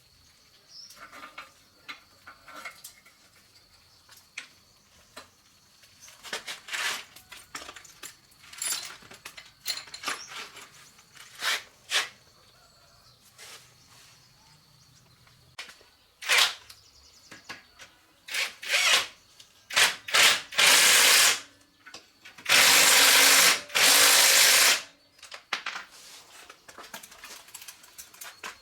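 Hand work on motorbike parts: scattered clinks, taps and scrapes of tools and metal parts. Then, near the end, two loud bursts of a power tool, about one and two seconds long.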